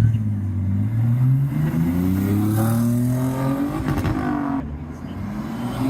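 A Mini accelerating away, its engine note climbing steadily for about three seconds, then breaking off briefly about four seconds in and carrying on lower and quieter.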